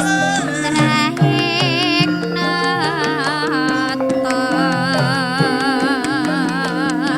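Javanese gamelan music: struck metallophone notes over a steady pulse, with a long-held melody line wavering in pitch above.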